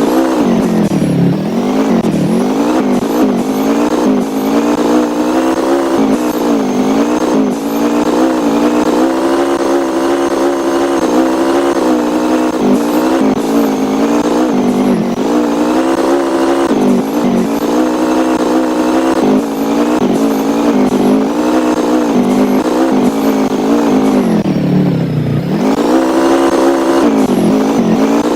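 A motor vehicle's engine running continuously, its pitch rising and falling with changes in throttle; near the end it drops low and climbs back up.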